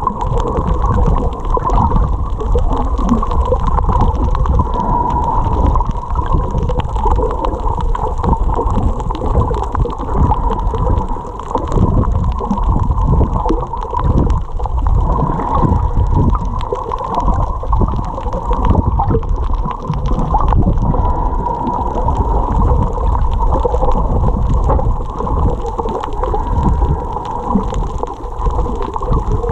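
Muffled rumbling water noise from a camera in the water during snorkeling, with a faint steady hum running underneath.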